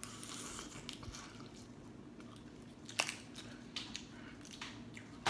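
Soft, close-miked chewing of snow crab meat, with a few sharp clicks, the loudest about three seconds in.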